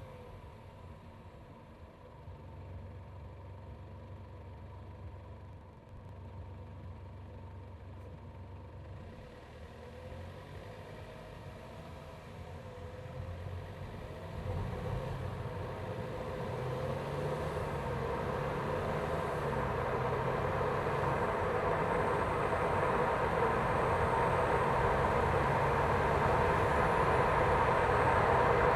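BMW 120i's B48 turbocharged four-cylinder engine heard from a microphone in the engine bay, running with a low steady hum at first, then growing steadily louder with a rising rush of noise from about halfway on.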